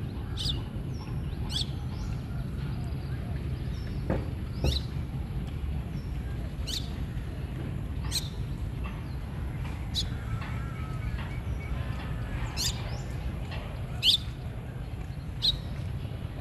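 A bird chirping: about nine short, high chirps, spaced a second or two apart, over a steady low rumble.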